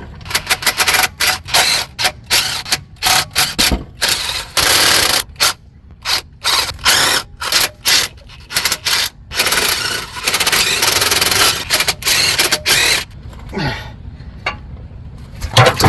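Power tool running in short bursts, with a few longer runs, backing out the bolts of a 68RFE transmission pan that has no drain plug and must be dropped to drain.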